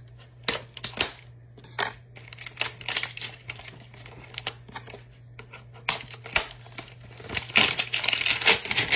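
Plastic wrapping crinkling and trading cards rustling as a hanger box of cards is handled and opened, in many short scratchy bursts that grow denser and louder near the end, over a steady low hum.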